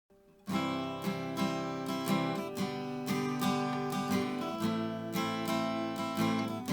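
Background music: strummed acoustic guitar starting about half a second in, with chords struck in a steady rhythm.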